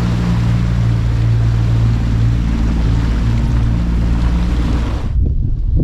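Small boat's outboard motor running steadily under way, a low even hum beneath wind and water noise. About five seconds in the sound changes abruptly to low wind buffeting on the microphone.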